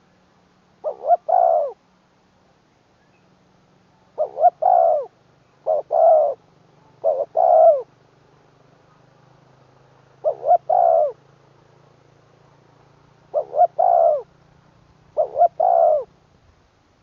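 Spotted dove cooing: seven phrases a second or more apart, each two short notes followed by a longer drawn-out note.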